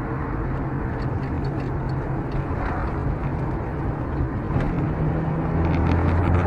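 A car's engine and road noise, a steady low hum whose engine note changes about five seconds in.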